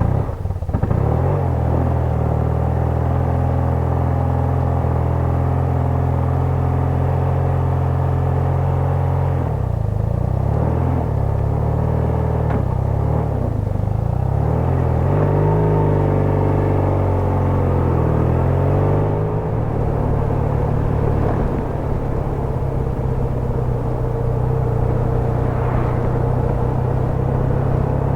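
BMW R100RS air-cooled flat-twin (boxer) engine, just started, running steadily. From about ten seconds in, its revs rise and fall unevenly for some ten seconds, then it settles into a steady run again.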